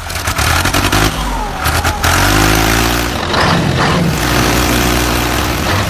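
A heavy vehicle's engine running and revving, a low drone that gets louder about two seconds in.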